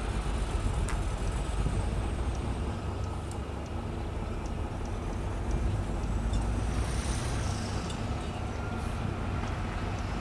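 Diesel engine of heavy road-building machinery running steadily with a deep rumble, with a few faint clicks.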